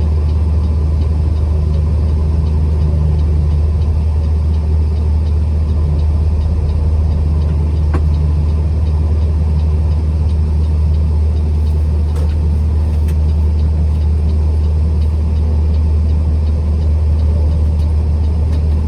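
Truck running, a loud steady low drone of engine and road noise that holds unchanged throughout.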